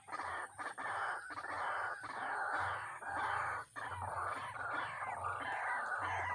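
White-breasted waterhen calling: a fast run of harsh, repeated croaking notes with short breaks.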